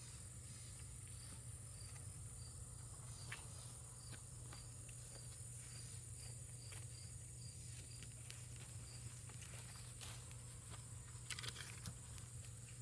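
Faint outdoor ambience of insects: a steady high-pitched drone with a cricket-like chirp repeating every half second or so, over a low steady hum. A few small clicks and rustles sound, several of them close together near the end.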